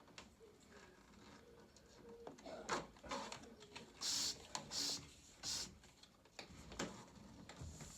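Plastic trim being worked loose from a Stannah 600 stairlift's chassis: scattered clicks and knocks, with three short scraping rasps in the middle.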